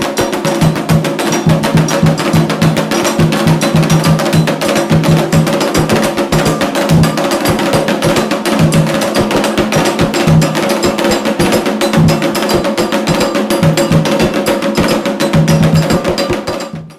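Percussion music with fast, dense clicking strikes and drums over a few held pitched notes, in the manner of Candomblé ritual drumming; it cuts off suddenly near the end.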